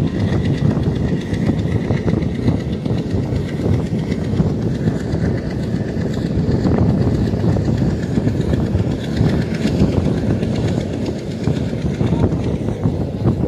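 Passenger train coach running along the track, heard from an open window: a steady low rumble of wheels on rails with the clickety-clack of the wheels over rail joints.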